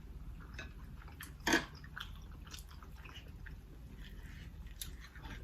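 Close-miked chewing and mouth smacking, with scattered wet clicks and one louder smack about one and a half seconds in.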